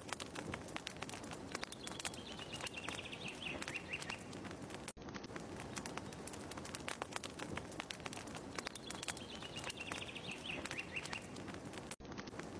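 Fire crackling in a fireplace: a steady stream of small pops and snaps over a soft hiss. A short, high, falling chirp comes twice, about seven seconds apart, and the sound drops out for an instant twice.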